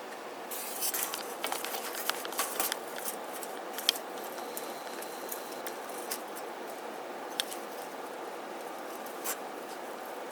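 Birds at a seed feeder pecking and handling seed: a quick flurry of sharp clicks and taps, then single taps every second or two, over a steady background hiss.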